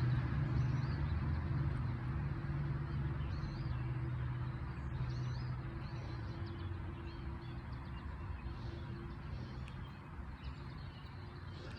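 Low, steady engine hum that slowly fades away, with faint bird chirps scattered throughout.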